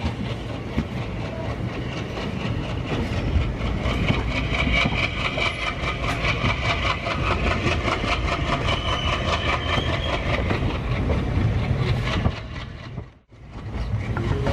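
Express passenger train running at speed, heard from on board: a fast, even clatter of wheels on the track over a low rumble. The sound cuts out for a moment near the end, then picks up again.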